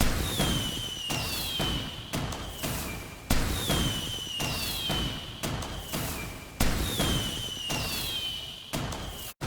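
Fireworks going off in quick succession: sharp bangs, each with an echoing decay, and whistles gliding down in pitch between them. The sound cuts off abruptly just before the end.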